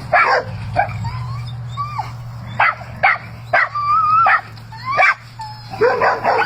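Dogs squabbling over a chew bone: a string of short sharp barks and yips mixed with held, wavering whines.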